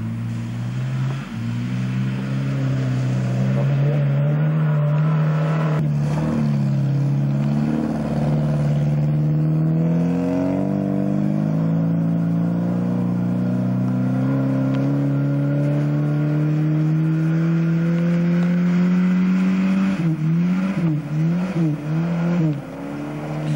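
Car engines revving hard during a banger-style sand-track race, the pitch slowly climbing, with a thump about six seconds in. Near the end the revs rise and fall quickly.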